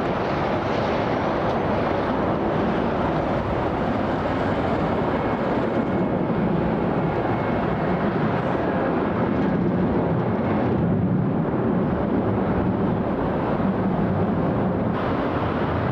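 Steady jet engine noise of a Delta Airbus A330-200 departing at takeoff power, its upper hiss thinning for a few seconds near the end.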